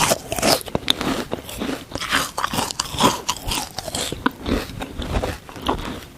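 A frozen watermelon sponge, foamy with toothpaste, being bitten and chewed: dense crunching and crackling with many sharp clicks, easing off near the end.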